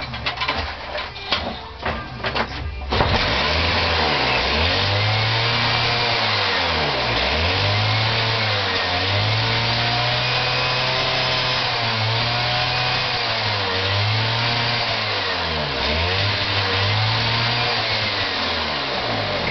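Two-stroke lawnmower engine, its air filter missing, sputtering under pull-cord cranking and catching about three seconds in, then running with its speed surging up and down every second or two.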